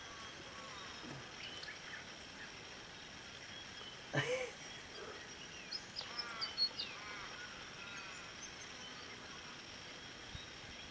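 Wild birds calling over a low outdoor background: scattered short, arching chirps and high notes, busiest in the second half, and one louder, lower call about four seconds in.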